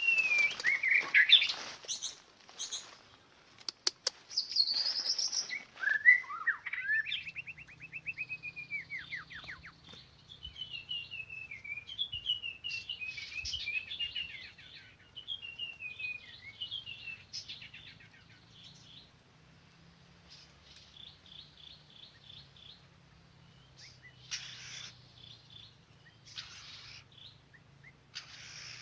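White-rumped shama singing. Loud sliding whistles in the first few seconds give way to a long run of varied notes and quick trills, then shorter, fainter chirps in the second half.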